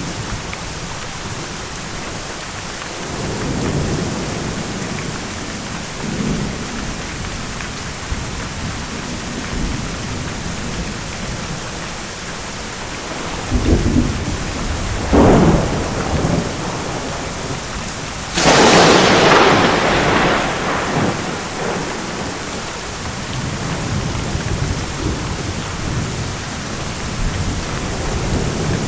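Thunderstorm: steady rain falling, with low rolls of thunder early on and a sudden, loud thunderclap about two-thirds of the way in that rumbles away over a few seconds.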